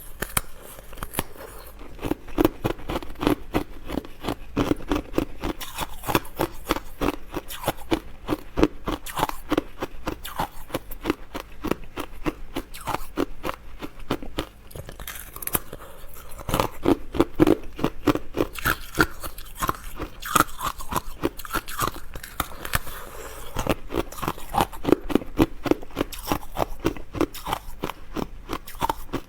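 Close-miked chewing of crunchy food: dense, rapid crackling crunches that come in bouts of a few seconds each.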